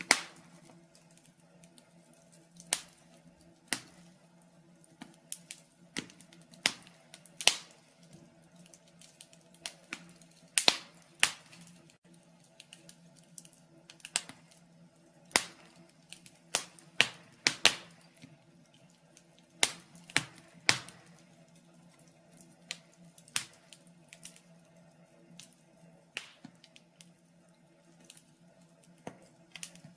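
Wood fire crackling in a fireplace: irregular sharp pops and snaps, some much louder than others, coming every second or so.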